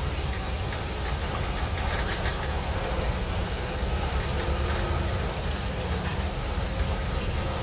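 Shantui DH17C3 Pro crawler bulldozer's diesel engine running steadily with a low rumble, with scattered clanking from its steel tracks.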